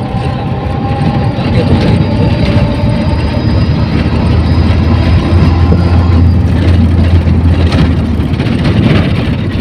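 Inside a moving passenger vehicle: a steady low engine drone with road and wind noise.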